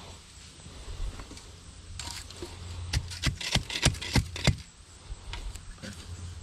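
Tools working at a fence post hole: scattered knocks and scrapes, then a quick run of about eight sharp knocks in a second and a half, about halfway through.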